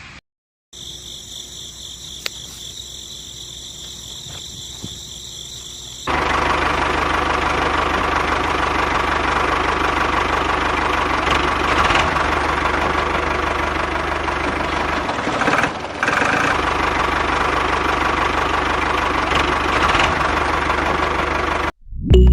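Small motor of a miniature DIY chaff cutter running. For the first few seconds it is a quieter, steady high whine. About six seconds in it jumps to a much louder, dense mechanical noise, dips briefly partway through, and cuts off abruptly just before the end.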